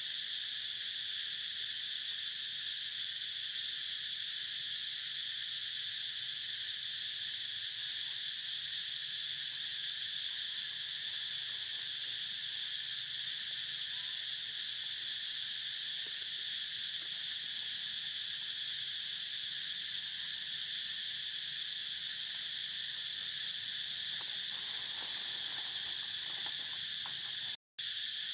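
Steady, unbroken chorus of insects trilling at a high pitch, with a brief total dropout near the end.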